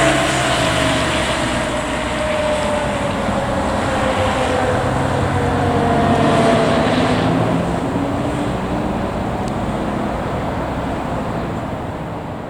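Fire truck going by with loud engine and road noise, and a siren tone sliding slowly down in pitch, once at the start and again about halfway through.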